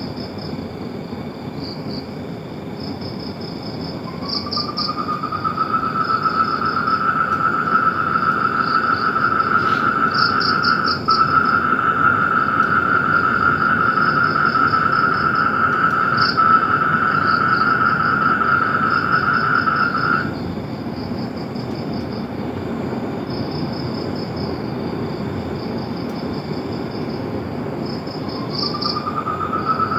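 Outdoor animal calls: a long, steady trill that starts about four seconds in, holds for about sixteen seconds, stops, and starts again near the end. Over it runs high, rapid chirping in short runs.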